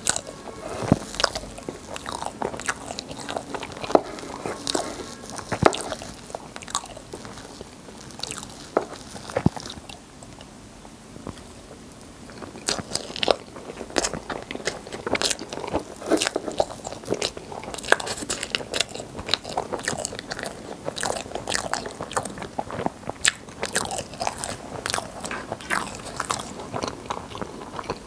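Close-miked chewing of soft rainbow crepe cake layered with cream, with a quick run of irregular wet mouth clicks and smacks. Fork and knife strokes cut through the cake in between bites.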